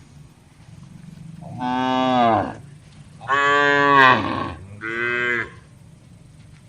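Cattle mooing: three moos in quick succession, the first falling in pitch, the second the longest and loudest, the third short.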